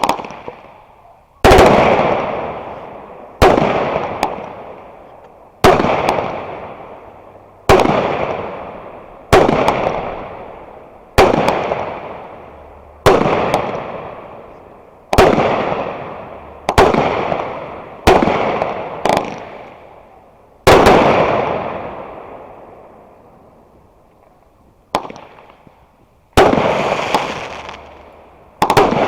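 Aerial fireworks bursting in a steady run, a loud bang every one to two seconds, each trailing off over a second or two. There is a pause of a few seconds past the middle, then the bursts pick up again near the end.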